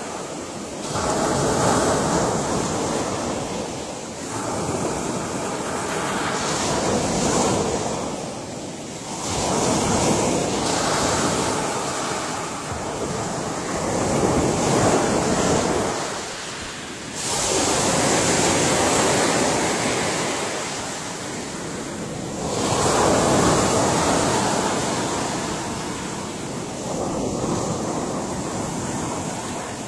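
Ocean waves breaking and washing ashore, swelling and ebbing in long rolling surges every few seconds.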